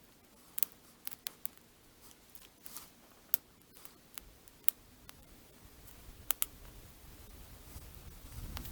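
Small fat-wood and twig campfire crackling: about ten sharp snaps and pops scattered irregularly, with a low rushing sound building near the end.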